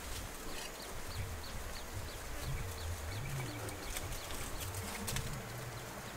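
Outdoor ambience with an uneven low rumble, and a small bird giving a quick run of about ten short, high, falling notes in the first half.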